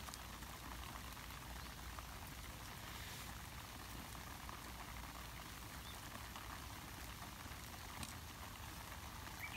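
Light rain falling, a faint steady patter with a few single sharper drips.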